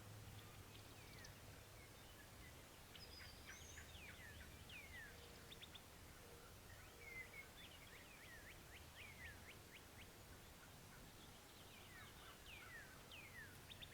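Faint songbirds calling in the woods: repeated short chirps sweeping downward in pitch, with quick trills mixed in.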